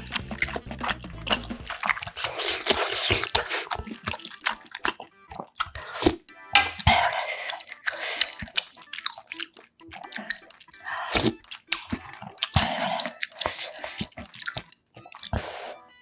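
Close-miked eating sounds: a person slurping ramen noodles and broth from budae-jjigae and chewing, with several longer slurps and many short sharp clicks.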